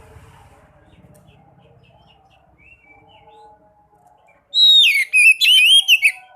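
Sekoci songbird singing: faint scattered chirps, then a loud quick phrase of sliding whistled notes and trills about four and a half seconds in, lasting about a second and a half.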